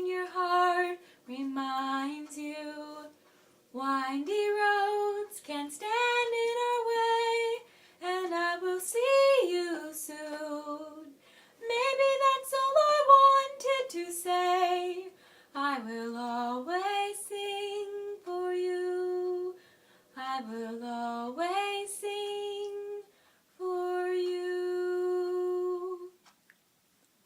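A woman singing a slow song solo and unaccompanied, in phrases separated by short pauses, with long held notes in the last phrases.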